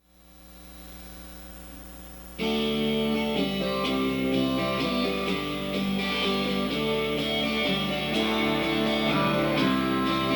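Instrumental guitar intro of a song: a quiet held tone swells in, then the guitar comes in loudly with strummed chords about two seconds in.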